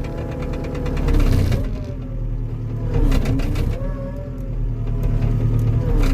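Skid steer's diesel engine running hard under load as it pushes against tree root balls. Its pitch sags and recovers a few times as the hydraulics strain, with rattling near the start and end.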